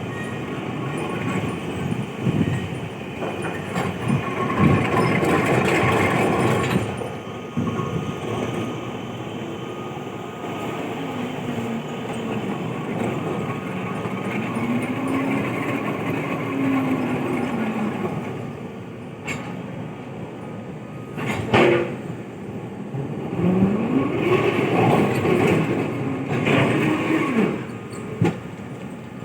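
P&H 4100XPC electric rope shovel at work: a steady machinery rumble, with the drive motors' whine slowly rising and falling in pitch several times. Two sharp knocks come about two-thirds of the way through.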